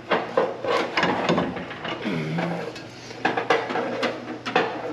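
Irregular metal clanks and knocks of tools and heavy parts being handled during shop work, over a steady low hum.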